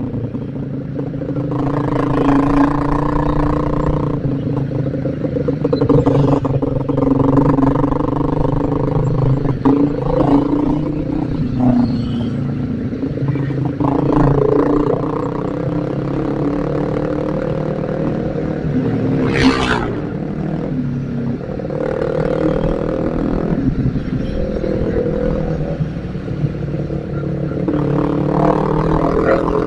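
Single-cylinder Yamaha Vixion motorcycle engine running under way, its note rising and falling as the rider changes speed, with wind rumble on the helmet microphone. A brief sharp noise about two-thirds of the way through.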